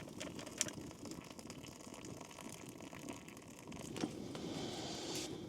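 Hot water being poured into a cup of instant coffee mix, with a couple of sharp knocks of the cup or pot.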